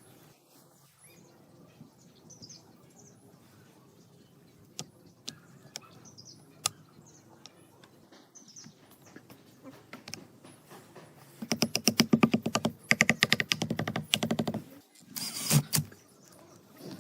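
Workshop work on parts: scattered light clicks and taps, then about eleven seconds in a fast, even run of clicks for a few seconds, followed by two louder bursts near the end.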